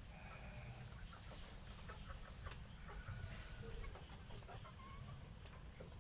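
A few short animal calls over a scatter of faint clicks and a low steady rumble.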